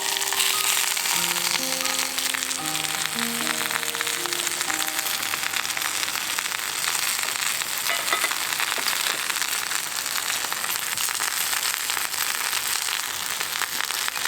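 Steady rain falling, a dense even hiss with fine patter. Soft background music fades out in the first few seconds.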